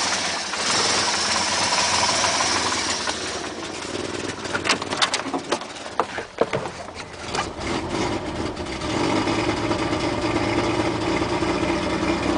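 1967 Mercedes engine idling shortly after a cold start, its carburettor faulty. In the middle there is a stretch of irregular sharp clicks, then the idle settles into a steady, even note.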